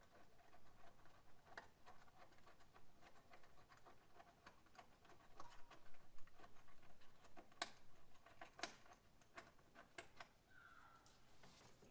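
Faint, irregular clicks and light taps of hand work on parts in a truck's engine bay, with two sharper clicks about two-thirds of the way through.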